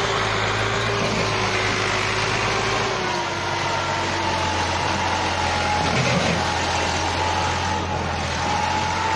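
Massey Ferguson tractor's three-cylinder diesel engine running steadily as it pulls a heavily loaded trolley, its pitch dropping slightly about three seconds in.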